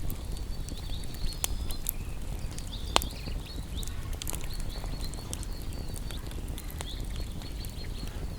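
Wood campfire crackling, with scattered sharp pops, the loudest about three seconds in, over a low rumble. A high, rapidly repeated chirping runs underneath.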